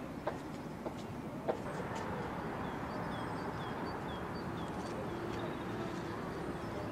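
A few footsteps on stone, about one every half second. They give way to a steady outdoor hiss of wind. Over the hiss, a bird calls a quick run of short, falling chirps.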